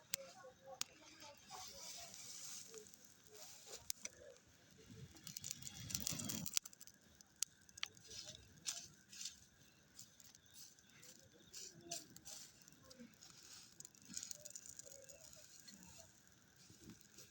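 Scattered light clicks and rustling, with a louder rustling scrape about five to six and a half seconds in.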